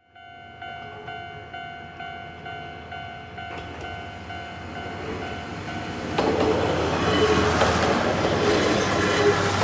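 A bell-like ding repeats about twice a second, like a railway crossing warning bell. From about six seconds in, a Kominato Railway KiHa diesel railcar passes, its running noise and wheels on the rails growing louder and taking over.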